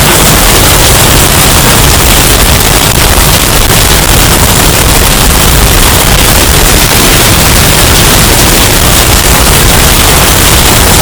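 Hurricane storm sound effect, heavily bass-boosted and overdriven into distortion: a steady, very loud wall of noise with no letup.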